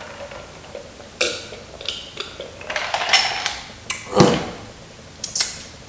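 Close-up eating of crispy fried chicken: a string of crackly crunching bites and wet chewing, the loudest and deepest about four seconds in.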